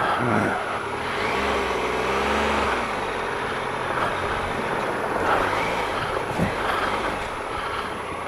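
Triumph Explorer XCa's 1215cc three-cylinder engine running at low revs, the revs rising and easing off about a second in, under a constant rush of noise as the bike is ridden slowly through deep mud.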